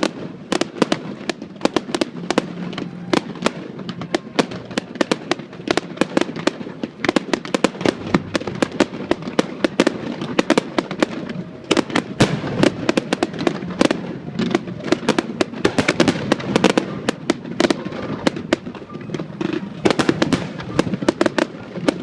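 Fireworks display with aerial shells bursting in a dense, continuous barrage of sharp bangs and crackles, several per second.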